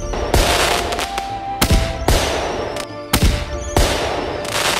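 Fireworks going off: a series of sharp bangs, each trailing into a crackling hiss, over background music.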